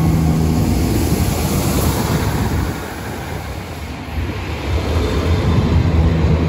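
A diesel multiple unit train running through the station, a low engine hum over wheel and rail noise. It eases off briefly in the middle, then grows louder again.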